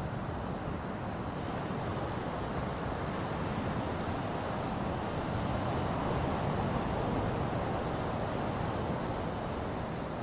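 Ocean surf: waves washing in as a continuous rushing noise, swelling to a louder crest about two-thirds of the way through and then easing.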